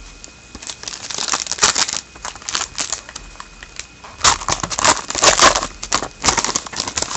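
Foil wrapper of a hockey card pack being torn open and crinkled, in two bouts of rustling.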